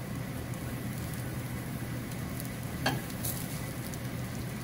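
Taro root patties sizzling steadily on a hot cast iron griddle as oil is trickled onto them from a spoon. A single sharp click is heard about three seconds in.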